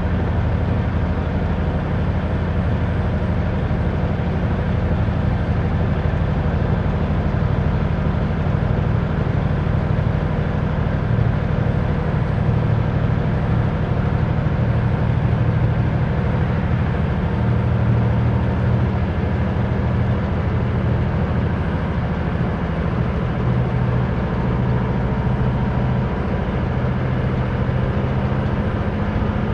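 Semi truck's diesel engine running steadily at highway cruising speed, a constant low drone with road noise.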